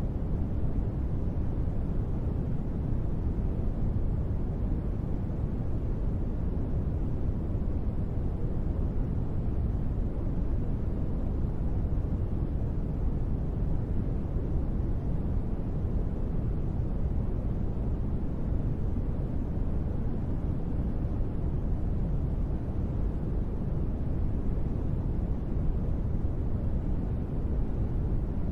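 Continuous sleep-aid noise, a steady, unchanging hiss weighted toward a deep rumble.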